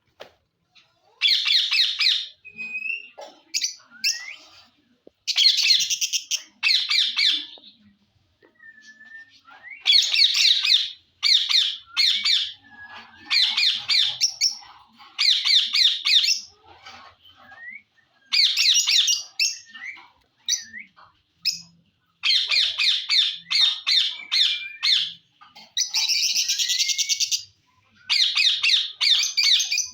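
Indian ringneck parrot (rose-ringed parakeet) giving repeated harsh, loud squawks in bursts of about a second, with a few short whistled notes in the gaps.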